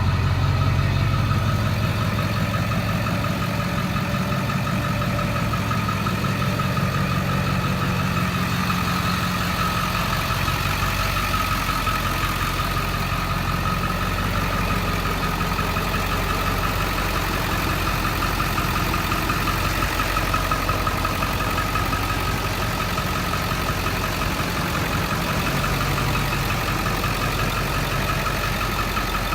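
A 2002 Ford F-350's 7.3-litre turbodiesel V8, fitted with a free-flow intake and exhaust, idling steadily.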